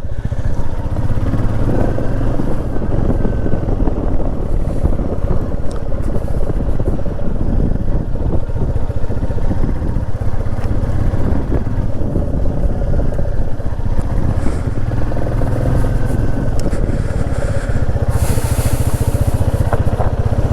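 Motorcycle being ridden, its engine a steady low rumble throughout, with a brief hiss near the end.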